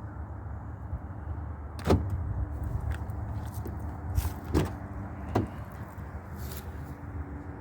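A few sharp knocks and clicks, the loudest about two, four and a half and five and a half seconds in, over a low steady rumble.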